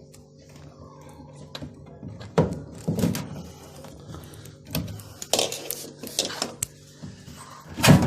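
Clatter and sharp knocks of hands and tools working the plastic drain pump and hose clamp of an automatic washing machine loose, with a few loud knocks, the loudest near the end.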